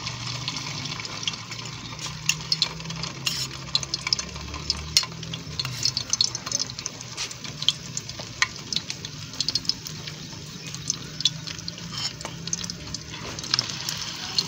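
Egg-coated chicken shami kababs frying in shallow hot oil: a steady sizzle dotted with frequent sharp crackles and pops.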